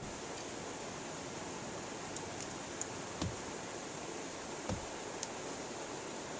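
Steady hiss of rain and a flowing river. A few sharp ticks and two dull thumps sound over it.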